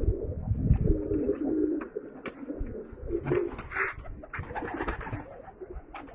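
Domestic pigeons cooing, several low wavering coos one after another, with soft low bumps of movement underneath.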